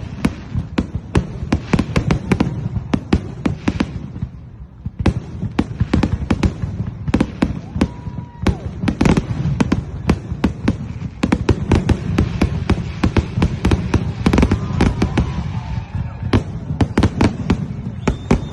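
Fireworks going off in a dense barrage of sharp pops and crackles, several a second, easing briefly about four seconds in before picking up again.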